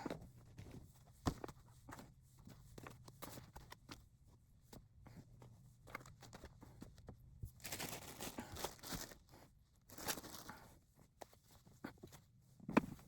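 Faint handling noises as yarn is moved and stacked onto a shelf: scattered light knocks and thuds, with two longer stretches of rustling past the middle and a sharper knock near the end.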